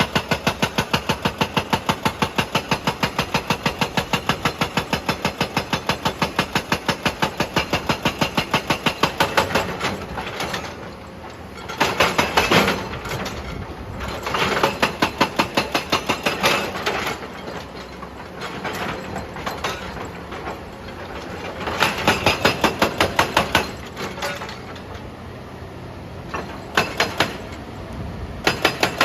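Excavator-mounted hydraulic breaker hammering rock in rapid, even blows, about six a second. It runs without a break for the first nine seconds or so, then comes in short bursts with the engine running between them.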